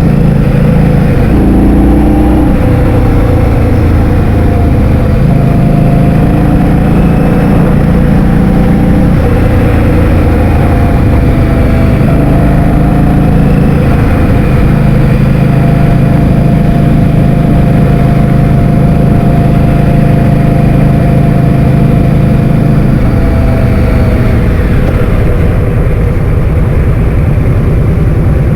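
Motor scooter engine running at a steady pitch while riding, under heavy wind buffeting on the microphone; the engine note falls near the end as it slows.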